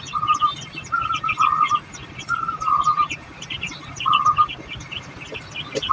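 Society finches chirping: a string of short buzzy calls repeated every second or so, with quicker, higher chirps clustered between them.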